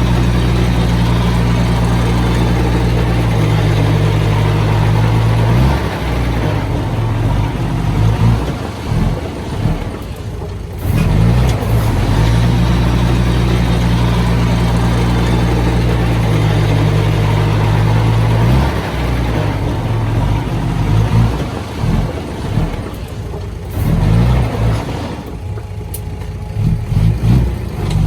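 Diesel engine of heavy earthmoving machinery working. Twice it holds a steady note for about six seconds, and between those stretches it runs rough and uneven.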